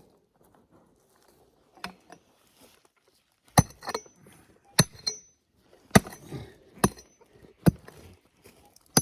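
Hand digging tool chopping into hard clay and stones: a few small clicks, then from about three and a half seconds in a run of six sharp strikes about a second apart, some with a short metallic clink.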